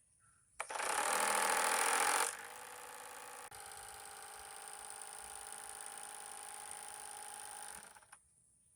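Small 9V electric motor spinning a three-blade nylon model propeller whose blades slap against two thin plastic strips at the cowling, making a rapid buzzing rattle meant to imitate an aircraft engine. It starts abruptly, is loudest for about the first second and a half, settles to a steady lower buzz, and cuts off abruptly near the end.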